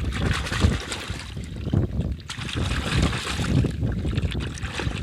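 Wind buffeting the microphone in gusts, with water sloshing and splashing as a muddy toy truck is rinsed.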